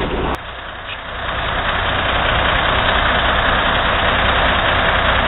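Log truck's diesel engine running with road noise, a low steady hum under a hiss. The sound drops off abruptly just after the start, then builds back up over about a second and holds steady.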